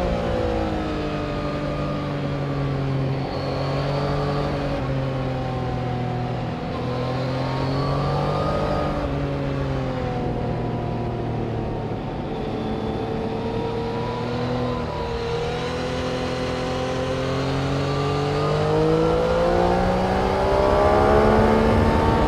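Engines of vehicles lapping a race circuit, heard from beside a corner. More than one engine can be heard at once, each note falling as it slows and rising as it accelerates away, with a long rising run that grows louder near the end.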